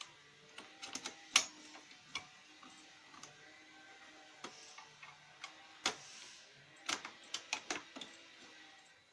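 Lexmark X364dn laser printer running with its grinding noise: irregular sharp clicks and knocks, the loudest about a second and a half in and a quick cluster near the end, over a faint steady whir. The noise was eventually traced to the duplex assembly, whose replacement cured it.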